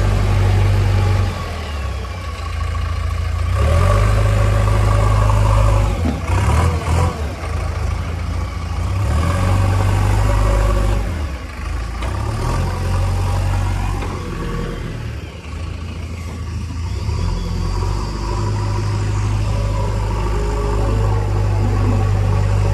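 Heavy diesel engine of working machinery running loudly and revving up and easing off several times, as under load, with a few short knocks about six to seven seconds in.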